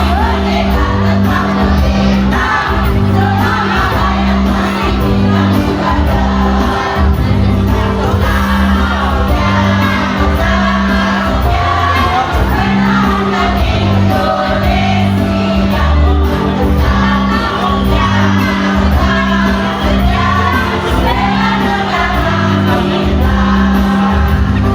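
A choir singing over loud amplified backing music, with a held bass note and a repeating bass rhythm underneath.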